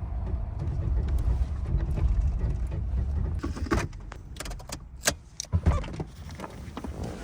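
Low steady rumble of an SUV running, heard from inside the cabin. It fades about halfway through and gives way to a handful of sharp clicks and clunks, like in-car handling of keys, controls or a seatbelt.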